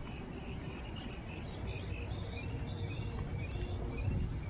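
Small birds chirping, a run of many short, high notes that come and go, over a steady low rumble.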